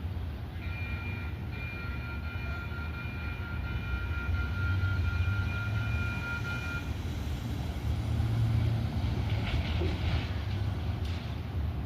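Light rail train running, with a steady low rumble. A high, steady ringing tone made of several pitches sounds from about half a second in until about seven seconds, followed by a brief hiss near the end.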